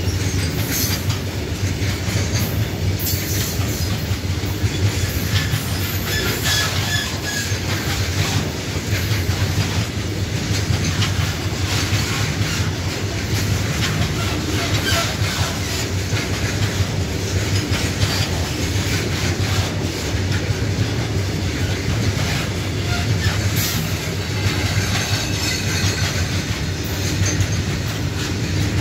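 Covered goods wagons of a long Indian Railways freight train rolling past close by: a steady rumble with rapid clicks of the wheels over the rail joints, and a short high wheel squeal now and then.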